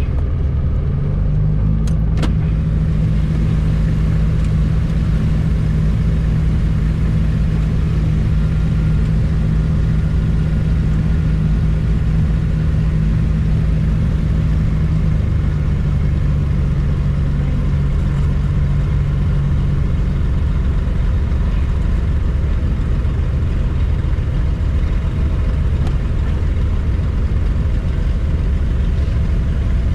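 Cessna 402's twin turbocharged six-cylinder piston engines droning loudly and steadily, heard from inside the cockpit. A steady engine tone drops slightly about halfway through and fades out about two-thirds of the way in, and there is a single click a couple of seconds in.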